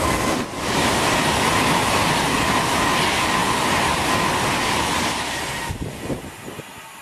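Virgin Class 390 Pendolino electric train passing through the station at speed close by: a loud rush of wheels on rail and air, with a steady high whine running through it. The sound fades away after about five and a half seconds as the train draws off.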